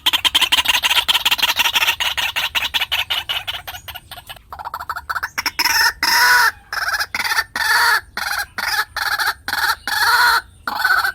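White-breasted waterhen calling: a fast rattling series of notes for the first few seconds, then a run of separate, repeated croaking notes at about two a second.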